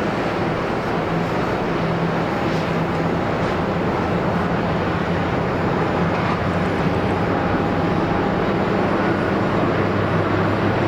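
Jet engines of an Airbus A320neo airliner on landing approach, a steady rushing noise with a low hum that grows slightly louder towards the end.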